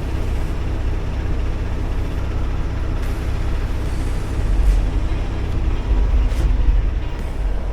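Semi truck's diesel engine idling, a steady low rumble heard from inside the cab. It swells a little past the middle, with a few faint clicks over it.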